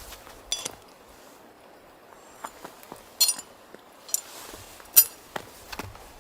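A few sharp, ringing clinks of small hard objects knocking together, like metal or glass gear being handled. The clinks come about half a second in, then around three, four and five seconds in; the last is the loudest. Light handling rustle lies between them.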